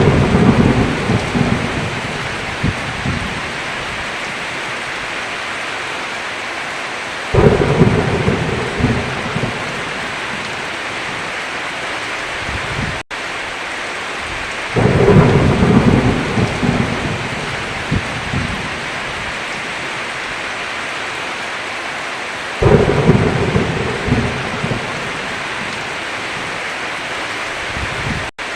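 Steady heavy rain with thunder rumbling in about every seven and a half seconds. Each rumble comes in suddenly and dies away over two to three seconds. Twice the sound cuts out for an instant.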